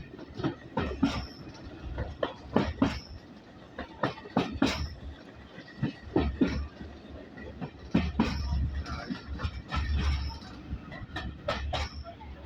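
Steam-hauled heritage passenger train running along the line, heard from aboard: repeated sharp clacks of the wheels over the track over a low rumble that swells and fades.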